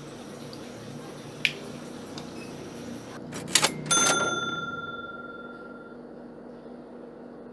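A sharp click, then two quick clicks and a bell-like ding about four seconds in that rings out for about two seconds.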